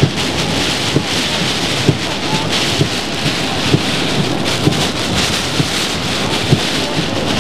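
Heavy hurricane rain beating on a vehicle's windshield, with gusting wind, heard from inside the vehicle. A windshield wiper knocks at the end of each stroke, regularly about once a second.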